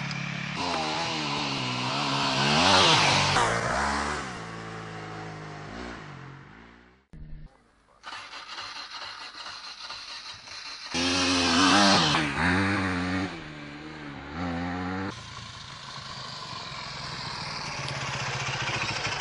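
Dirt bike engines running and revving, pitch rising and falling, loudest about three seconds in and again about twelve seconds in. There is a brief break to near silence about seven seconds in.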